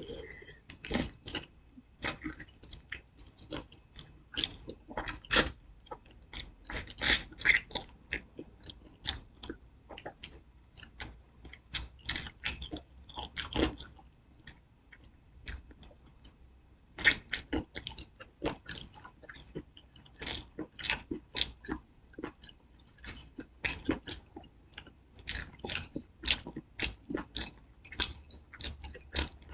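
Close-up chewing and biting of fried chicken: irregular wet, crunchy mouth noises, with a pause of about three seconds midway.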